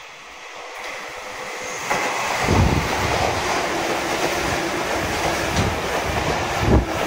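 Sotetsu (Sagami Railway) electric commuter train approaching and passing the platform at speed. Its noise builds over the first two seconds into a steady loud rush of wheels on rail, with clacks at the rail joints as the cars go by.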